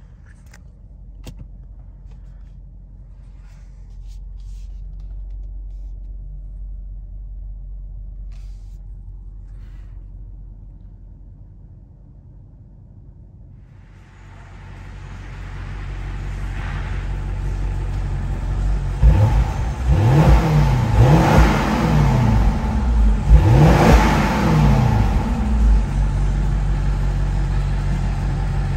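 2019 BMW Alpina B7's twin-turbo V8 running with a low rumble, growing louder about halfway through. It is then revved several times in quick succession, each rev rising and falling, before settling back to a steady idle near the end.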